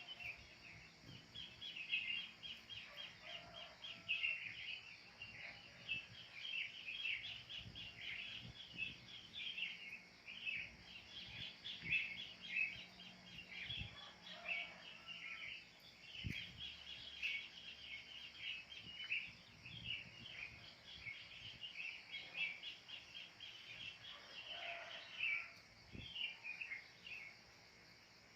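Wild birds calling in a dense, continuous chorus of rapid short chirping notes, over a faint steady high hiss.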